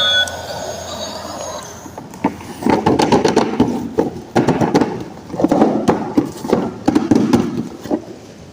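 Irregular rustling and clicking from handling toy packaging, starting about two seconds in, after a toy's electronic tone cuts off.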